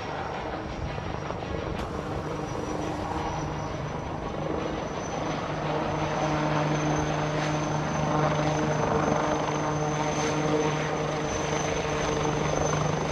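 Helicopter turbine and rotor running steadily: a low hum with a high, steady whine on top, growing louder about six seconds in.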